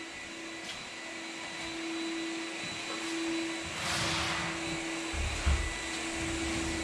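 Floor-sanding machine running steadily: a constant motor hum with a hiss of sanding noise, getting somewhat louder and deeper from about four seconds in.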